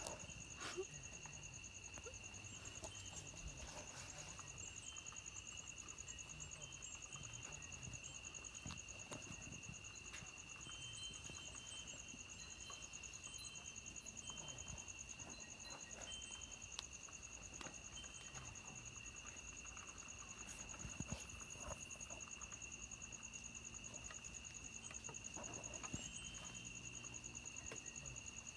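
Faint, steady chirring of insects in two high, finely pulsing tones that never let up, with scattered small clicks and knocks.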